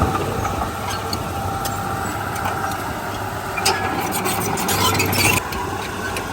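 Diesel engine of heavy earthmoving machinery running steadily, with a cluster of sharp metallic clicks and rattles about four to five seconds in.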